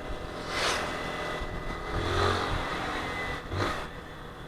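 Honda CG 160 Fan motorcycle's single-cylinder engine running while it is ridden through traffic, under steady road and wind noise. Vehicles rush past twice, about a second in and near the end.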